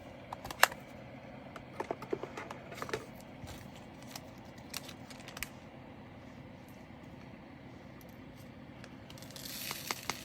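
Small plastic bags and a sticker being handled on a tabletop: scattered sharp clicks and taps, the loudest about half a second in, and a burst of plastic crinkling near the end.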